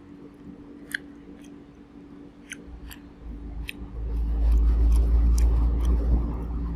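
Eating sounds: sharp little clicks and smacks from chewing and picking at fish, with a loud low rumble for about three seconds in the second half.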